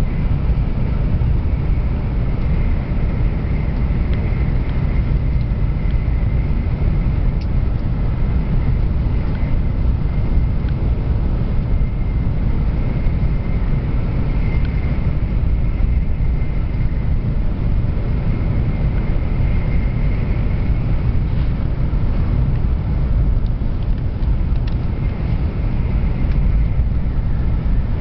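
Train running steadily: a continuous low rumble with a faint steady whine above it and a few light clicks.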